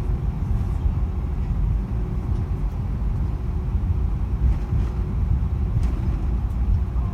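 Low, steady rumble of an Airbus A319 heard from inside the passenger cabin, with a few faint ticks over it.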